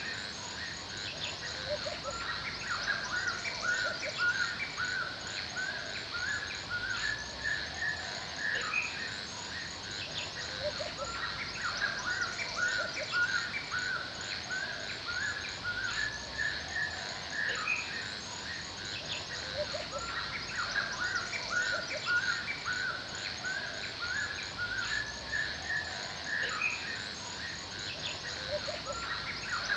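Forest birds chirping and calling continuously, many short notes overlapping, over a steady high background hum.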